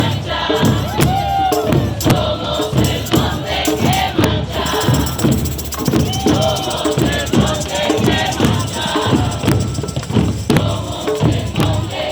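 Protest crowd chanting and singing together over a steady beat of hand percussion.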